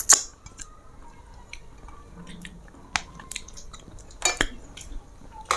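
Mealtime eating sounds: quiet chewing with a few sharp clicks and clinks of plates and dishes. The loudest click comes right at the start, and three more follow about a second apart near the end.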